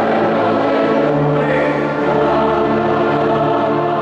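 Choir singing with instrumental accompaniment, holding long sustained chords.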